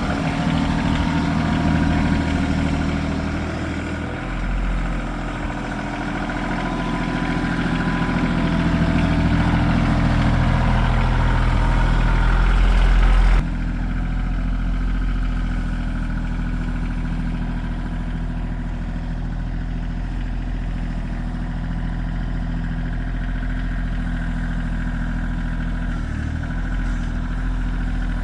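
Tractor engine running steadily, louder and busier at first, then abruptly quieter and steadier about halfway through.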